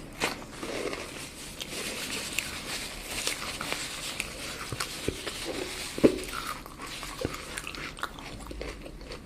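Close-miked chewing and biting of chocolate, with a crisp crackle and small clicks throughout and one sharp snap about six seconds in.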